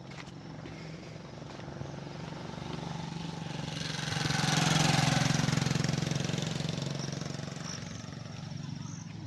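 A motor vehicle driving past, its engine growing louder to a peak about five seconds in and then fading away.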